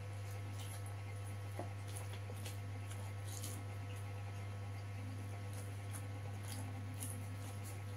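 Close-up mukbang eating sounds: chewing and wet mouth clicks and smacks as rice is eaten by hand, in scattered short ticks, over a steady low electrical hum.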